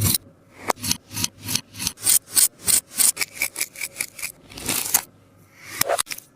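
A sticky taba squishy toy being handled and pressed: quick repeated rubbing, sticky strokes, about three a second, then one longer stroke, a short pause and a couple more near the end.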